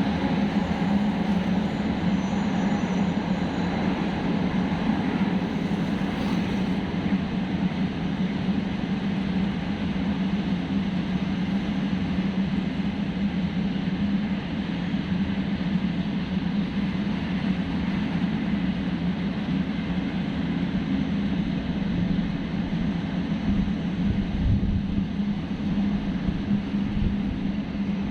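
Train rolling past the platform: a continuous rumble with a steady low hum, a little heavier near the end.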